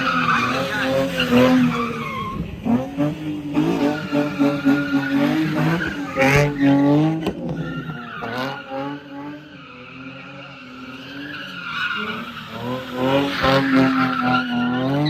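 A car skidding through a stunt, its tyres squealing and engine revving hard. The pitch wavers up and down, with the sound loud at first, easing about two-thirds of the way through, then swelling again near the end.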